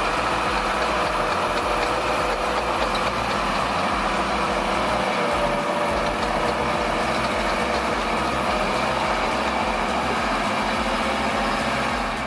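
Heavy vehicle engine running steadily, with a constant mechanical whine over it.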